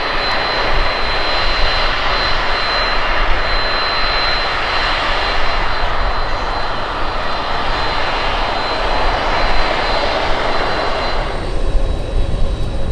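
Aircraft turbine engines running loud, a dense rushing noise with a steady high whine; near the end the rush and whine fall away sharply, leaving a low rumble.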